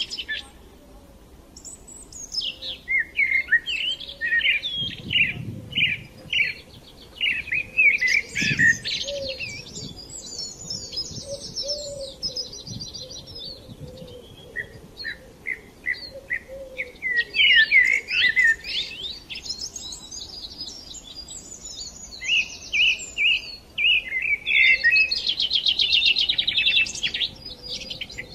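Birds singing: repeated short chirps and fast buzzy trills, some overlapping, coming and going throughout.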